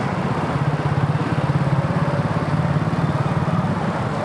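Motorcycle engine running at low, steady revs, with traffic noise around it.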